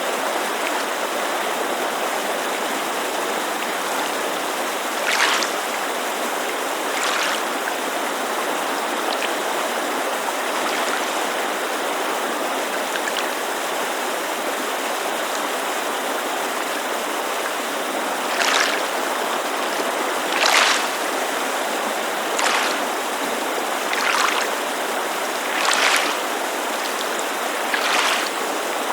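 Steady rushing of a creek, with small waves lapping at a lakeside shore in short splashes a second or two apart, most of them in the second half.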